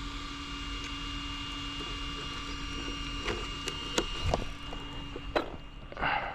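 Faint steady electric whine from a battery-electric R/C car sitting still. A few sharp clicks and ticks come in the second half, the whine cuts off with a click at about five and a half seconds, and a short scuff of noise follows.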